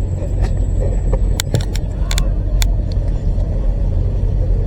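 Car engines and exhausts rumbling, low and steady, with a few short sharp clicks about one and a half to two and a half seconds in.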